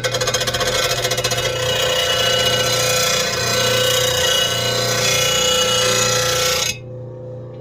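RBG-712 blade sharpener's grinding wheel grinding the steel edge of a lawn mower blade, with a rapid chatter at first and then a steadier grind. The grind stops about seven seconds in while the sharpener's motor keeps humming.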